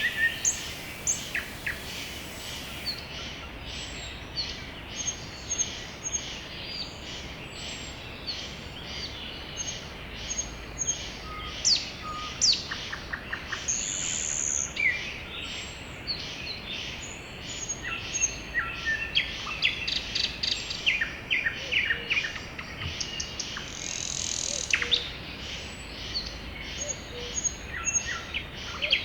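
Several songbirds singing and calling at once in a spring forest, a steady overlapping chorus of chirps, short trills and whistles.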